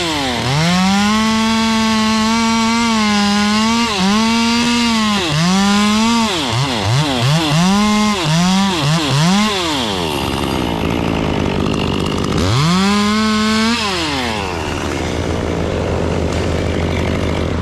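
Two-stroke chainsaw run up to full throttle in several long pulls with dips in between, then a run of quick throttle blips. About ten seconds in it drops to idle, revs once more briefly, and settles back to idle.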